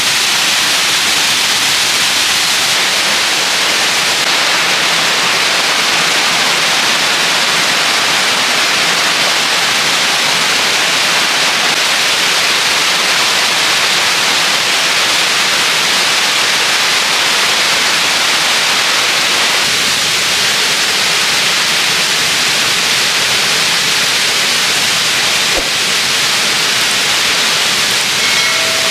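A waterfall rushing: a steady, loud hiss of falling water that does not let up.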